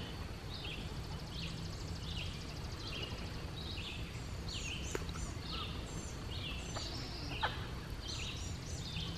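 Several birds chirping and singing, many short rising and falling calls overlapping one another, over a steady low rumble, with a few faint clicks after the middle.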